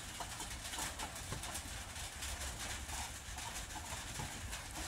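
Rain falling on a roof: a steady patter of many small drops.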